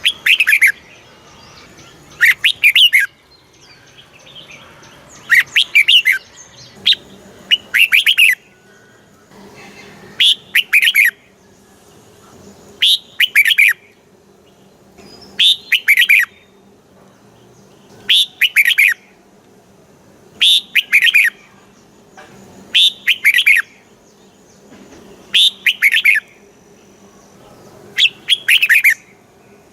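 Red-whiskered bulbul singing short, bright phrases of a few quick notes, repeated about every two and a half seconds.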